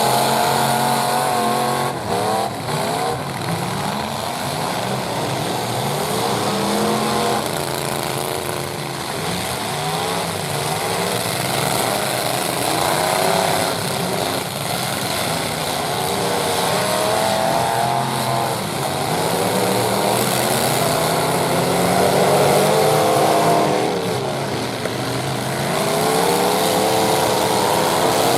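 Several full-size pickup truck engines revving hard and unevenly in a demolition derby, their pitches rising and falling over one another as the trucks accelerate and back off.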